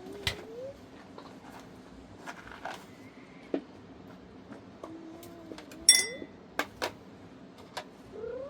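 Scattered light knocks and clicks of objects being handled, with one louder ringing metallic clink about six seconds in.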